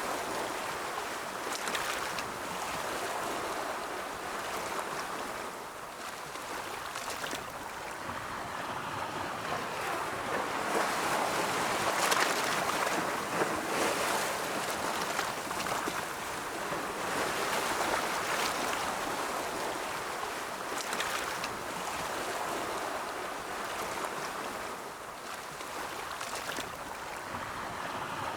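Ocean waves breaking and washing in: a steady rush of surf that swells and eases every several seconds, with brief sharper splashes now and then.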